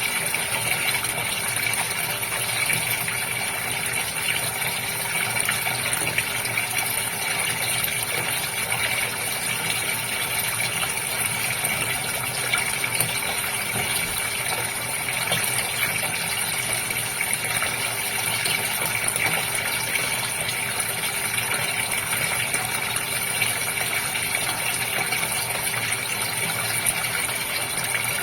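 Water gushing steadily in a goldfish tank, with the even hum of the pump that drives it.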